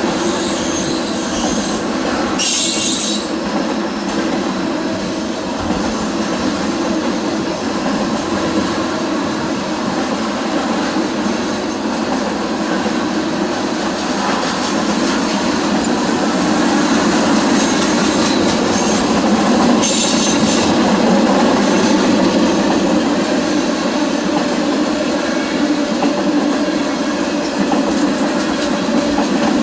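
Freight train rolling past: a steady rumble of steel wheels on the rails, with two brief high-pitched screeches, one near the start and one about two-thirds of the way through.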